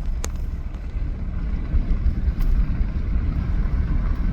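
Steady low rumble of a vehicle's engine and tyres heard from inside the cab while driving, with a single short click about a quarter second in.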